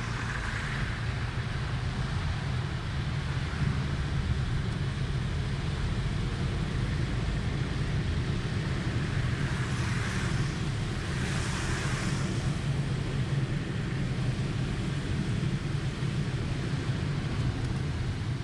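Car interior while driving through torrential rain: a steady low rumble of engine and road with a hiss of heavy rain and tyre spray over it, swelling briefly a few times.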